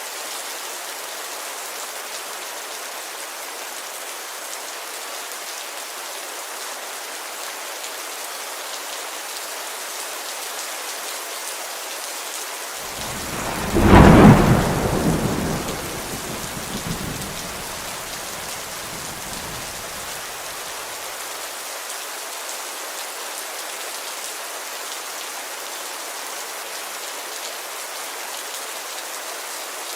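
Steady heavy rain on a window. About halfway through, a thunderclap breaks sharply and rumbles away over several seconds.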